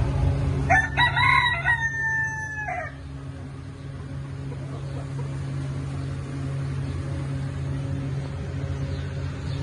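A rooster crows once, about a second in: one call lasting about two seconds that drops in pitch at the end. A steady low hum runs underneath.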